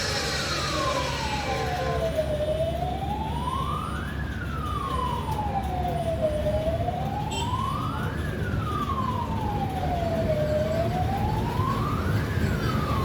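A siren wailing, its pitch rising and falling slowly about once every four seconds, over a steady low rumble.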